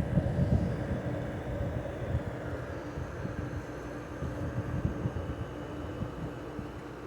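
LG 6000 BTU window air conditioner running, with a steady hum and the blower's airflow buffeting the microphone in uneven low rumbles, strongest in the first second or so.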